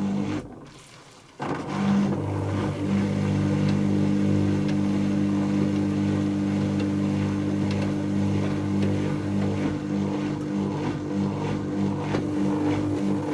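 Dyson Contrarotator CR01 washing machine running a spin, its motor giving a steady hum with a whine over the noise of the drums. The sound drops out about half a second in and comes back suddenly about a second later.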